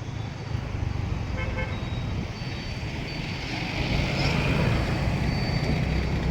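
Road traffic noise with the steady rumble of vehicle engines, swelling a few seconds in as traffic passes close, and a short vehicle horn toot about a second and a half in.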